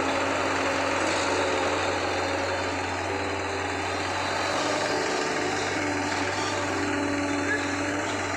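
Diesel engine of heavy construction machinery running steadily, with a constant low hum under dense mechanical noise.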